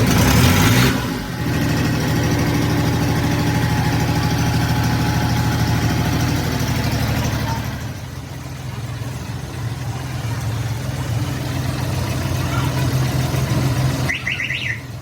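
Engine idling steadily after starting, with a loud burst in the first second. It runs steadily, then becomes quieter about eight seconds in.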